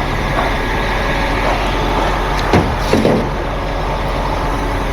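Heavy truck engine idling steadily, with two short knocks a little past halfway through.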